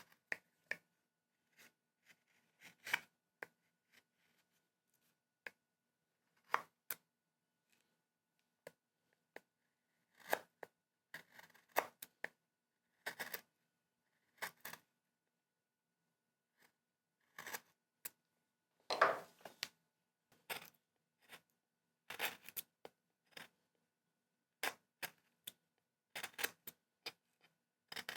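Hand carving tools cutting into wood: irregular short, crisp cuts, some in quick bunches, with one longer slicing stroke about two-thirds of the way through.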